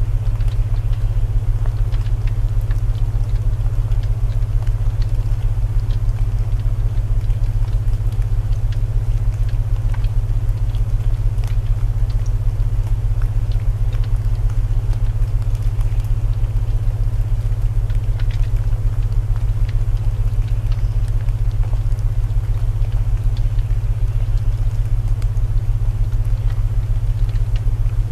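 Layered ambient sleep soundtrack: a steady low binaural-tone drone under an even hiss of rain, with the scattered crackles of burning wood from a fireplace.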